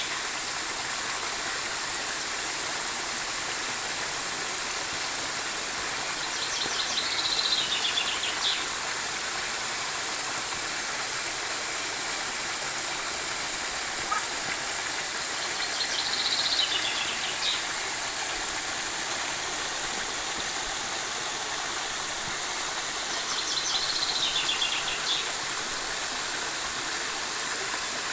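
Steady rush of flowing water, with a small bird singing a short descending trill three times, about eight, sixteen and twenty-four seconds in.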